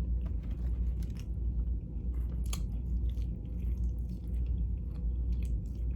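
A person chewing and biting food close to the microphone, with scattered short mouth clicks.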